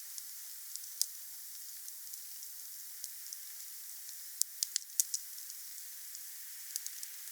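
Wood fire burning with a steady soft hiss and scattered crackles, with a quick run of sharper pops about four and a half to five seconds in.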